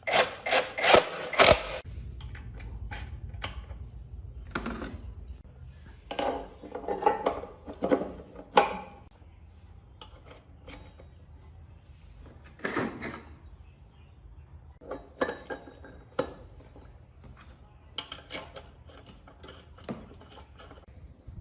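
Workshop handling of metal parts: a quick run of loud knocks and clatter at the start, then scattered knocks, scrapes and clicks, with a low steady hum underneath for the first half.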